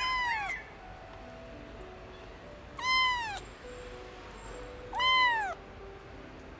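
A young kitten meowing three times, each high-pitched cry about half a second long, rising and then falling in pitch, a couple of seconds apart.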